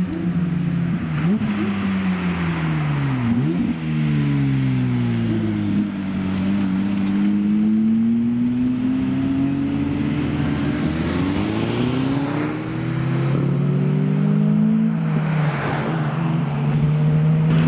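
Supercar engines running as cars arrive and drive by, with engine pitch falling and rising several times as they are revved and pass.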